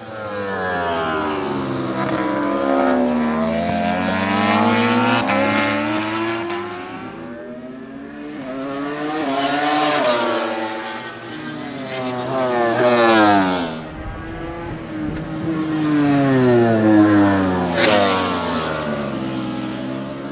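World Superbike racing motorcycles running hard on a race track, engine pitch rising and falling as they accelerate and shift. Three bikes pass close by, about halfway, two-thirds of the way and near the end, each rising to a loud peak and then dropping in pitch as it goes past.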